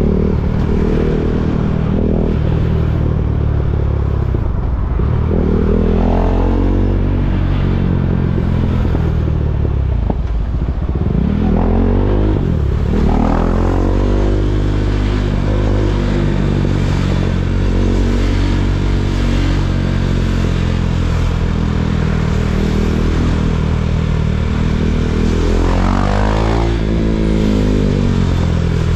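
KTM Duke 390's single-cylinder engine running at low revs, rising and falling in pitch three times as the throttle is opened and closed: about five seconds in, around twelve seconds in, and near the end.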